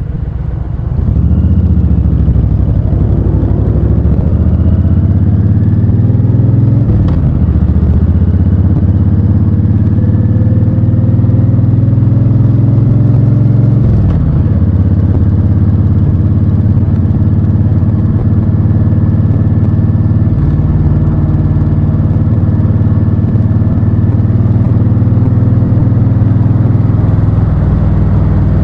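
Honda Fury's V-twin engine pulling away and accelerating through the gears, its pitch rising, dropping at two upshifts about 7 and 14 seconds in, then running at a steadier cruising pitch.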